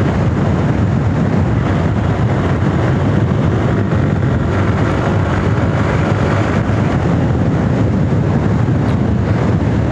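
Sports motorcycle riding at road speed in fourth gear, its engine running steadily under heavy wind noise on the microphone.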